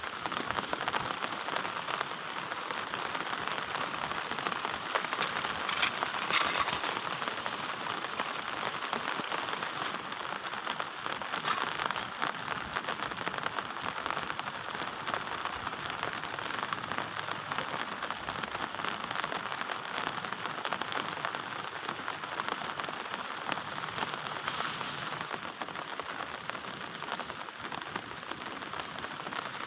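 Heavy rain falling steadily, a dense even hiss, with a few louder drops or splashes standing out about six and eleven seconds in.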